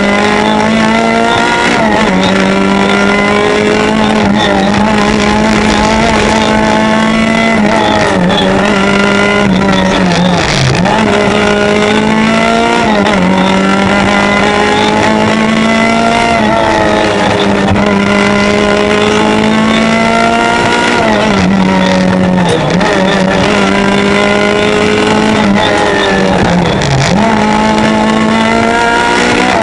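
Peugeot 205 rally car's engine heard from inside the cabin, driven hard on a stage: its pitch climbs repeatedly and drops at each gear change, with a few deeper dips where the driver lifts off.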